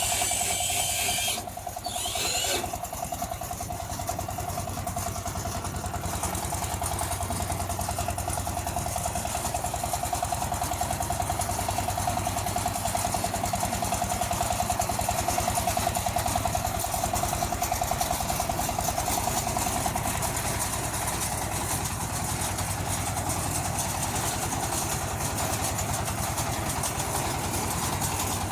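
Engine of a mini tractor cultivator running steadily, with a rapid, even firing pulse. A short burst of higher hissing noise comes in the first couple of seconds.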